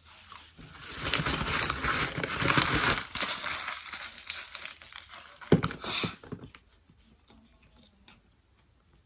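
Packaging crinkling and rustling close to the microphone, loudest in the first few seconds, with a sharp knock about five and a half seconds in, then stopping.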